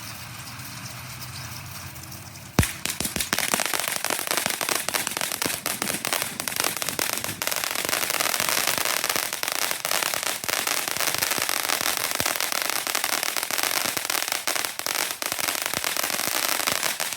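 Hot Fireworks Complex Behemoth Burger firework fountain. After a quieter steady hiss, a sharp pop comes about two and a half seconds in, then dense, continuous crackling that cuts off suddenly at the very end.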